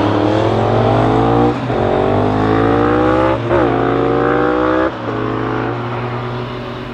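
A car engine accelerating up through the gears, with two upshifts about a second and a half and three and a half seconds in. After about five seconds the engine note drops lower and grows quieter.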